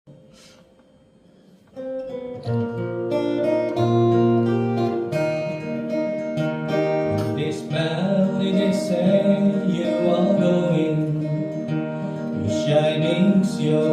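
Acoustic guitar playing a song introduction, strummed and picked, starting after a near-silent second or two. A singing voice joins about halfway through.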